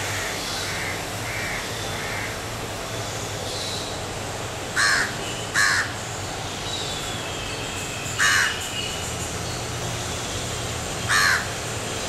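A bird gives four loud, short, harsh calls: two close together about five seconds in, then one near eight seconds and one near eleven. Fainter calls of the same kind come at the start, over steady outdoor background noise.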